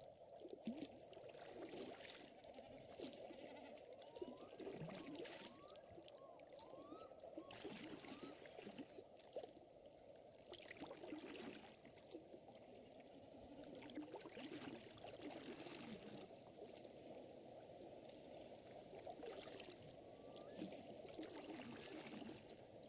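Faint lakeside ambience: water trickling and lapping steadily, with light crackles from a wood fire and scattered short rising chirps.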